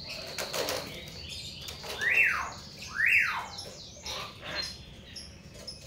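Hill myna calling: two loud calls about a second apart, each rising sharply and then sliding down, among softer clicks and chatter.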